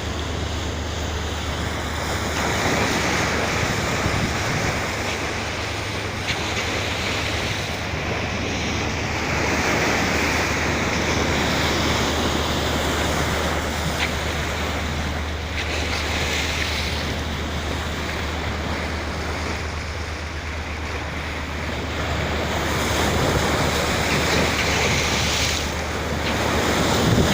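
Wind buffeting the microphone over the steady rush of sea water, with a constant low hum underneath.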